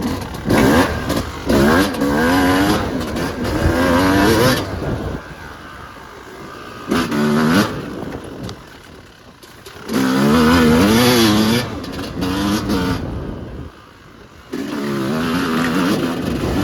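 Yamaha YZ250 single-cylinder two-stroke dirt bike engine under riding load: four bursts of throttle with the pitch wavering up and down, falling quieter in between as the throttle is rolled off.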